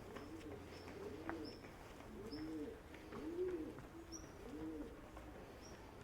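Pigeons cooing, a steady run of low rounded coos about once a second, with a few faint short high chirps in between.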